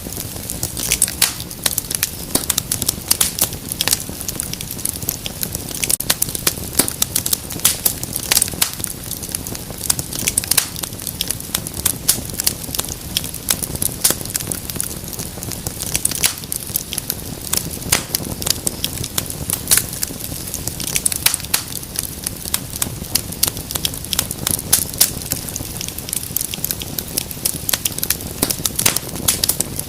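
Wood fire crackling in a fireplace: a steady rush with dense, irregular sharp pops and snaps.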